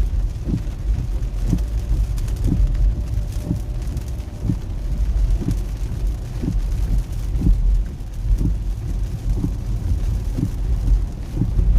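Car driving in the rain on a motorway: a steady low rumble of road and engine noise with rain hiss, and a short low thump about once a second.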